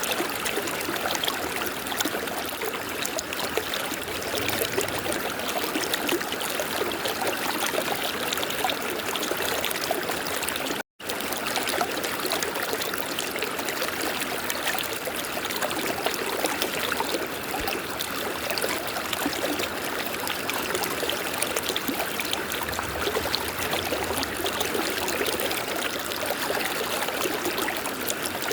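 River water flowing steadily, a continuous rush of water, broken by a momentary dropout to silence about eleven seconds in.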